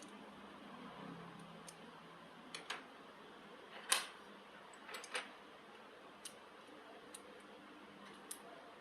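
Sparse light clicks and taps from work on the build, about nine over several seconds, the loudest about four seconds in.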